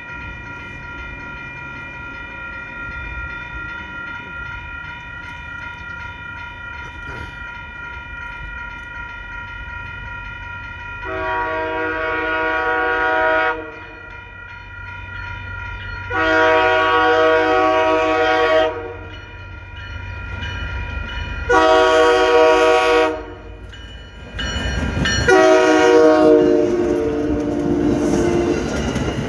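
Commuter rail locomotive's air horn sounding the grade-crossing signal, two long blasts, a short one and a final long one, over the steady ringing of the crossing's warning bell. Near the end the train reaches the crossing and the rumble of its wheels on the rails rises.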